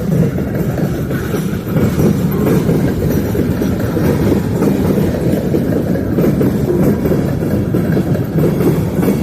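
Freight train rolling past, a loud, steady low rumble.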